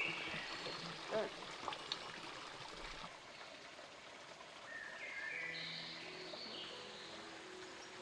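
Steady outdoor background of running water, with a short pitched call about a second in and high chirps around five seconds. Soft music with sustained notes fades in near the end.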